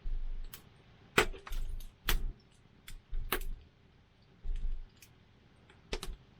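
Wood fire crackling, with irregular sharp pops and snaps, the loudest about a second, two seconds and three and a half seconds in. Short low thumps come and go among them.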